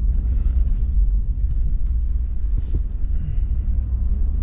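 Steady low rumble of engine and tyre noise heard inside the cabin of a moving vehicle.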